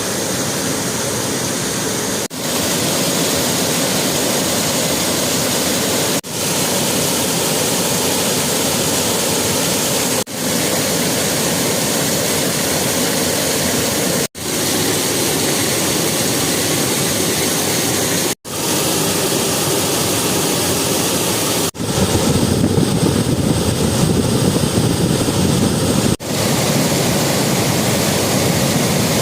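Waterfall roaring: a loud, steady rush of falling water, in a run of short clips about four seconds each, with a brief drop between them. Near the end it grows heavier and deeper for a few seconds.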